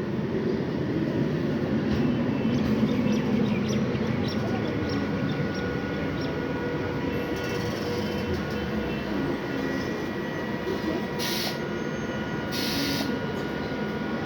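Train running at a station, a steady rumble with faint steady tones above it, and two short hisses a little over a second apart near the end.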